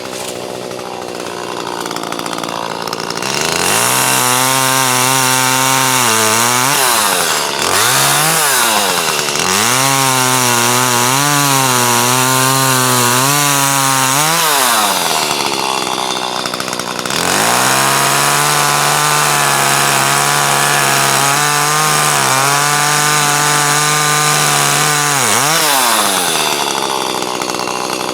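Chainsaw cutting through a log: the engine idles, then is revved up and held at high throttle three times, its pitch wavering and sagging under load as the chain cuts. It drops back to idle between cuts and again near the end.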